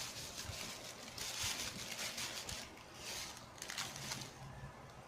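Short spells of scraping and rustling at the cooking pot as its contents are handled, stopping about four seconds in.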